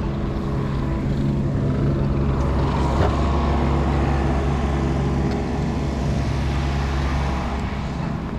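A road vehicle's engine running nearby, a steady low hum of even pitch that grows a little louder through the middle.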